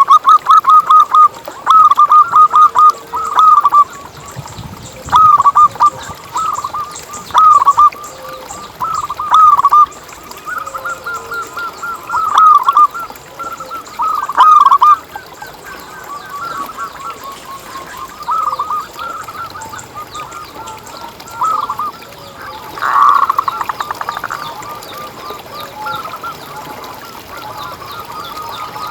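Zebra dove (perkutut) cooing in repeated short phrases of quick staccato notes, loud phrases every second or two with softer cooing between them.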